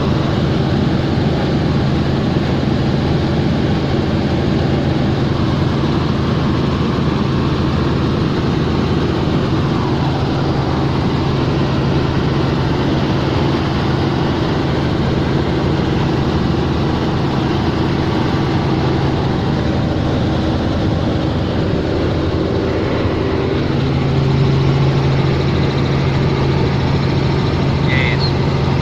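Helicopter in flight: steady engine and rotor noise with a constant low hum that grows a little louder near the end.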